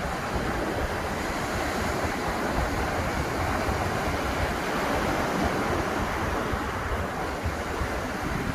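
Ocean surf: waves breaking and washing on the beach in a steady, slowly swelling rush, with low rumble from wind on the microphone.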